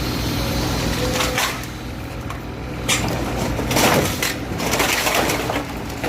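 Demolition of a building: masonry and timber crunching and cracking as it is broken up, in several loud surges, over a low steady machine hum.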